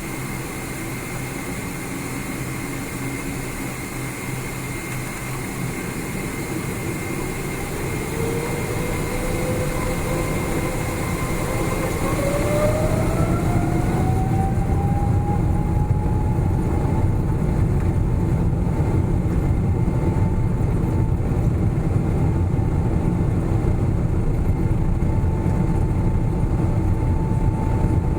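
Boeing 777-300ER's GE90 turbofan engines spooling up for takeoff, heard inside the cabin. A whine rises steadily in pitch over about ten seconds and then holds, while a low rumble grows louder underneath it.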